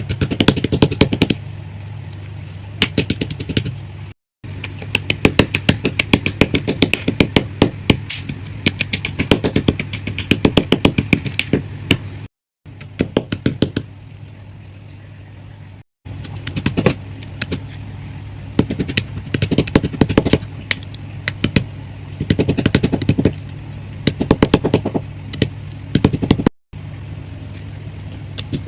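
Pressed chalk crust being crushed and crumbled into powder: rapid runs of dry, crisp crunching clicks over a steady low hum, broken by a few sudden cuts.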